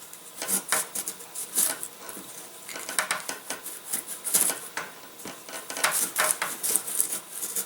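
Balsa plane shaving a balsa wingtip: a run of short, uneven scraping strokes as the tip is tapered down.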